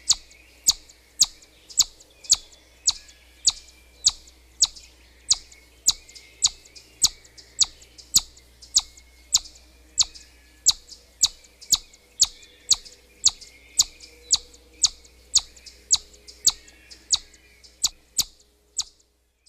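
Siberian chipmunk whistling its alarm call: short, sharp high chirps repeated evenly about twice a second, stopping just before the end.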